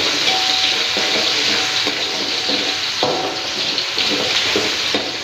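Chopped shallots, garlic, chillies and tomato sizzling in hot oil in a metal wok. A fork stirs them, scraping and clicking against the pan again and again.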